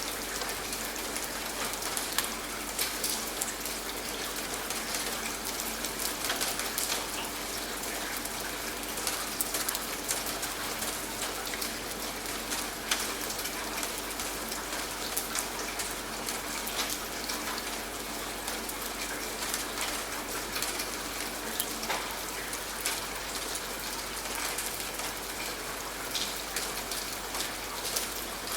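Steady rain, with many separate drops striking a surface.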